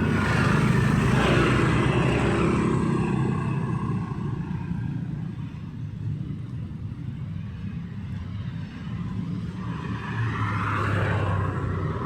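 Street traffic going by: motor vehicles with a low engine rumble and tyre noise, loudest in the first few seconds as one passes, quieter in the middle, and swelling again near the end as another approaches.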